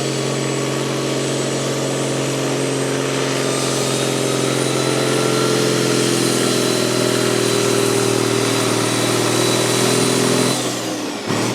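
A vehicle engine running steadily, getting a little louder towards the middle, then dropping off and falling in pitch about ten and a half seconds in.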